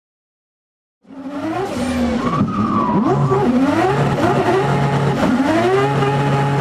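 About a second of silence, then a 1000 hp rotary engine in a McLaren drift car comes in, revving up and down repeatedly over the hiss of spinning, skidding tyres.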